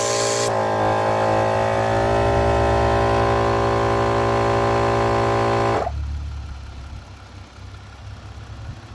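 Battery-powered Mile Marker portable air compressor running hard after a burst of air hiss at the start, its motor note rising slightly and then holding steady. It cuts off about six seconds in, leaving a low hum.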